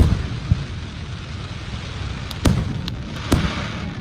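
Fireworks going off: several sharp bangs, one right at the start and a cluster from about two and a half seconds in, the last followed by a crackling hiss.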